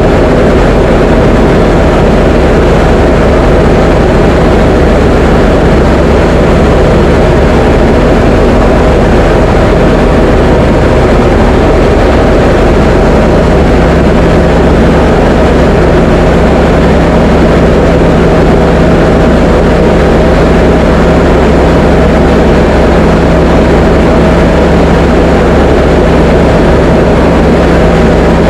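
Diamond DA20 light aircraft's piston engine and propeller droning loud and steady at constant power, with no change in pitch.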